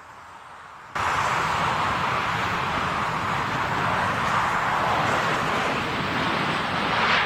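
Jet airliner engine noise from a landing plane passing close: a loud, steady rushing roar that starts abruptly about a second in.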